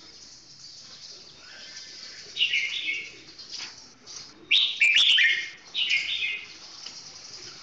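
Red-whiskered bulbul singing: three short warbled phrases, the first about two and a half seconds in, the loudest near the middle and a third just after it.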